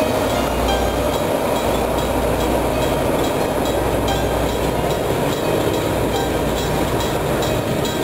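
Train wagons rolling past at close range behind a diesel locomotive, a steady, unbroken rumble of wheels on the rails.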